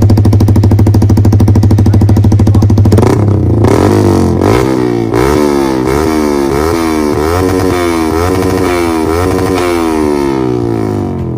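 Yamaha R15 V3's single-cylinder engine through an aftermarket Akrapovic exhaust, idling steadily, then revved up and down repeatedly from about three seconds in.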